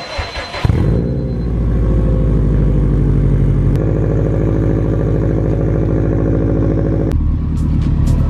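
Subaru WRX's flat-four boxer engine starting up less than a second in and running steadily, its note changing about halfway through and again near the end.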